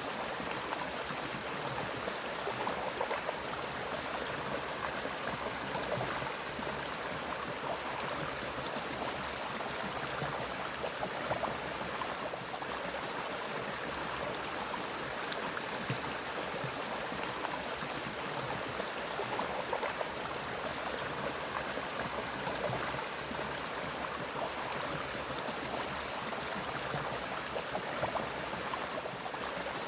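Mountain stream flowing through forest: a steady rush and babble of running water, with a steady high-pitched tone above it.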